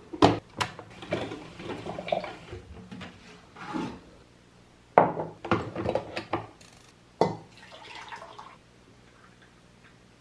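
Irregular clattering: a string of sharp clicks and knocks at uneven intervals, some ringing briefly.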